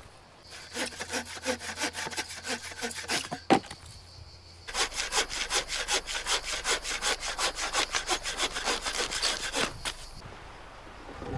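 Hand saw cutting dead wood in fast, even strokes, about four a second, in two bouts with a short pause between them. A sharp knock, the loudest sound, comes just before the pause.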